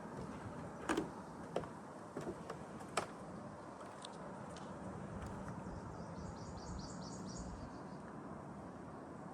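Footsteps on a nature trail, a few sharp steps or snaps in the first three seconds, over a steady outdoor background. About six seconds in comes a short, high, fast trill of repeated notes, about a second and a half long.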